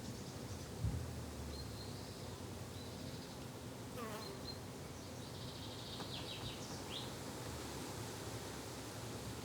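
Garden insects buzzing steadily, with a few short, high bird chirps scattered through and a brief soft thump about a second in.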